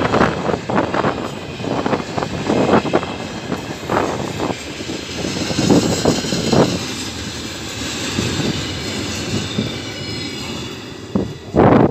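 Container flatcars of a freight train rolling past close by: a steady rolling rumble and hiss with irregular clattering knocks from the wheels on the rails.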